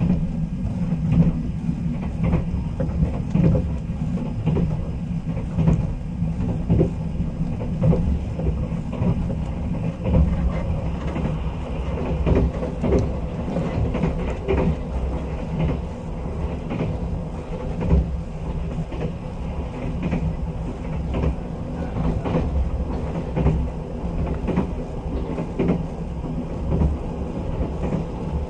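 Interior running noise of a sleeper train carriage under way: a steady low rumble from wheels and bogies, with irregular clacks as the wheels pass over rail joints.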